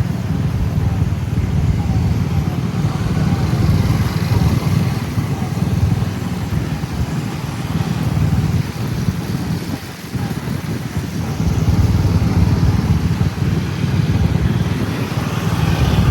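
A motor vehicle on the move: its engine and low road rumble run steadily, dipping briefly about ten seconds in.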